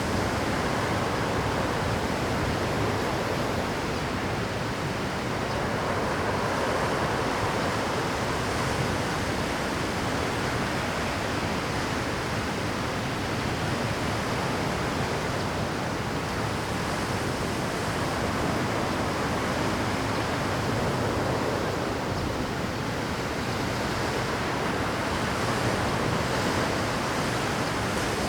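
Rough Pacific surf breaking continuously on a rocky shore: a steady wash of water noise that swells and eases every several seconds.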